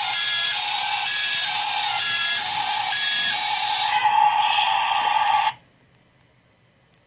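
Electronic sound effect from a toy construction vehicle after its recorded 'Back it up' phrase: a loud hiss with reversing beeps about every half second, cutting off suddenly about five and a half seconds in.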